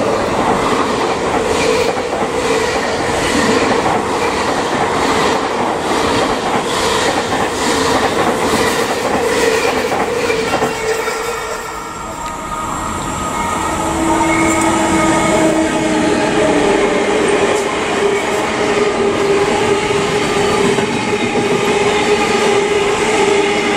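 Passenger coaches running through a station at close range, the wheels clicking in a regular rhythm over the rail joints. About halfway through, after a cut, a long intermodal freight train of swap-body wagons rolls past with a steady wheel rumble and several held squealing tones.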